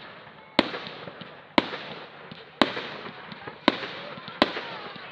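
Aerial firework shells bursting in a display finale: five sharp bangs about one a second, each trailing off in a fading echo, with fainter pops and crackle between them.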